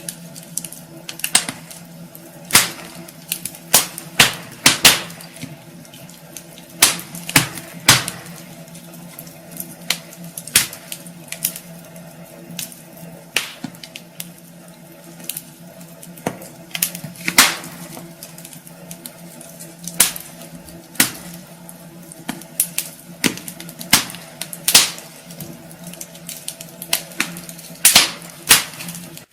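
Wood fire burning in a fireplace, crackling with irregular sharp pops and snaps over a steady low hum.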